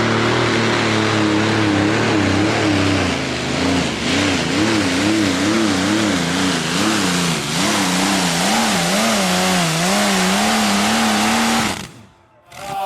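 A tractor-pulling engine running hard, its pitch swinging up and down in quick regular waves. It cuts off suddenly near the end.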